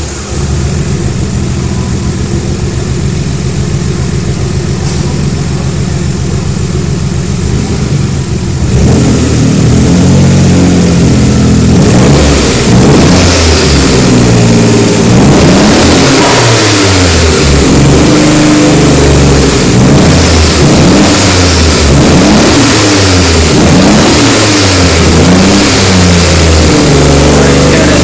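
Nissan RB26DETT twin-turbo straight-six idling steadily just after its first start, through a 3-inch exhaust. About nine seconds in it gets louder, and from about twelve seconds it is revved over and over, each rev rising and falling, before settling back to idle near the end.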